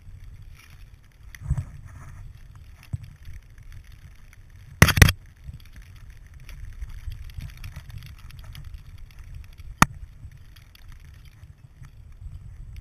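Muffled rumbling and rustling of movement picked up through a GoPro Hero 2 housing, with a few sharp knocks and a loud double thump about five seconds in, then a single sharp click near the ten-second mark.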